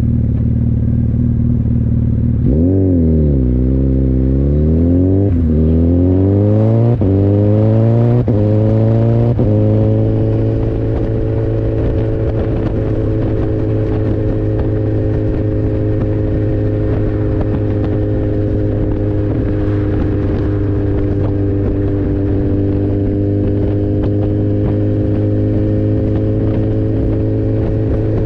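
Second-generation Suzuki Hayabusa's 1340 cc inline-four running at low revs, then pulling away and revving up through the gears. Four quick upshifts about a second and a half apart, each a sudden drop in pitch: clutchless shifts through the HM quickshifter's brief ignition cut. From about ten seconds in the engine holds a steady cruise.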